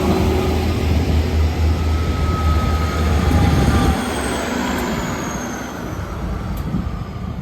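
Train running through the station: a loud low engine drone with rumbling wheel noise for about four seconds, then the drone drops away and the noise fades as it moves off. A faint high whine falls in pitch partway through.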